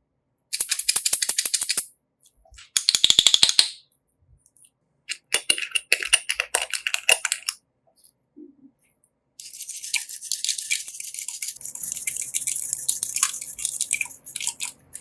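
Slime being squeezed and worked, giving crackly, clicking popping sounds in four bursts, the last and longest running most of the second half.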